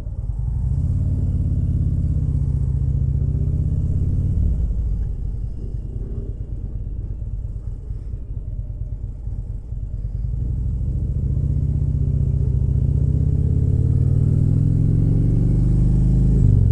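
Harley-Davidson motorcycle engine pulling under way: its note climbs, drops about four seconds in, runs lower for several seconds, then climbs steadily again from about ten seconds in.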